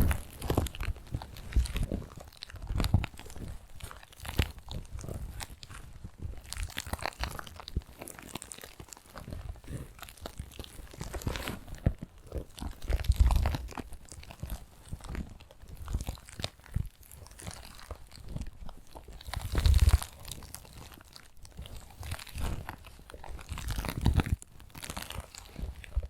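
Fingertips tapping and scratching close to the microphone, an ASMR trigger: a dense, irregular run of quick taps and scrapes with a few heavier, dull thumps.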